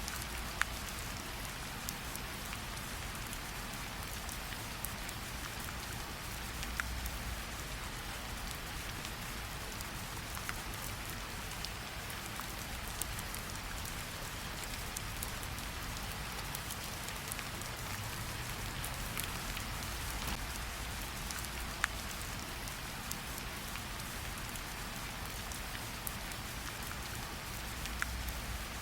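Gentle rain falling steadily on a forest path and its leaves, an even hiss with scattered single drops ticking sharply now and then.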